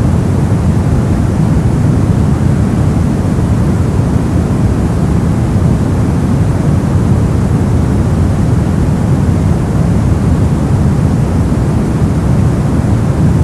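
Brown noise: a steady, deep rumbling hiss with most of its energy in the low range, unchanging throughout.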